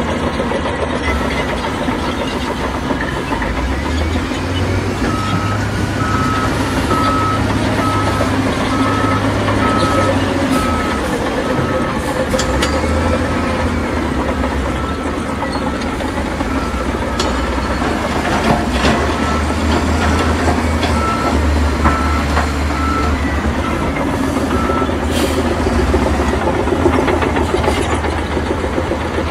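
Heavy diesel construction machinery running, with a reversing alarm beeping at a steady pace from about five seconds in until a few seconds before the end.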